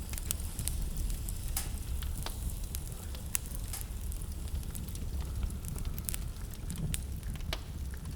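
Wood fire burning in a fireplace, crackling with irregular sharp snaps and pops, over a steady low rumble.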